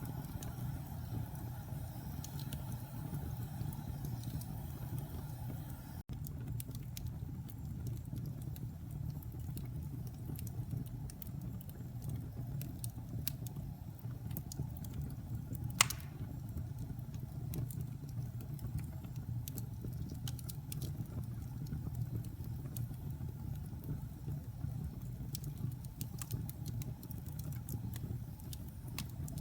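Fireplace fire burning with a steady low rumble and scattered small crackles, and one loud sharp pop about halfway through.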